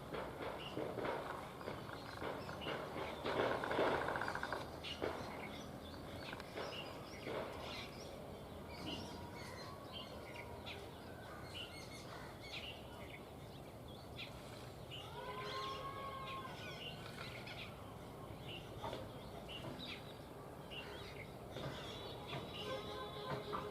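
Small birds chirping on and off over steady outdoor background noise. A louder rustling noise comes about three to four seconds in, and a single arched call is heard about two-thirds of the way through.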